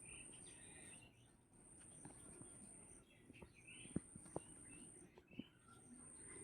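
Near silence with faint bird chirps, a few short sharp clicks about four to five and a half seconds in, and a steady high-pitched whine that breaks off and resumes.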